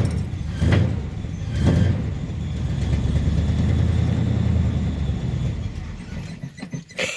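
Chevy Suburban engine cold-starting without the choke: it fires and catches at once, rises sharply twice in the first two seconds, then settles into a steady low idle that eases off slightly near the end.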